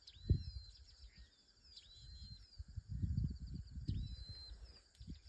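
A bird calls three times, each call a whistle that sweeps sharply up and then holds a high steady note, over fainter high chirps and ticks. Irregular low rumbles, with a thump near the start, are the loudest sound.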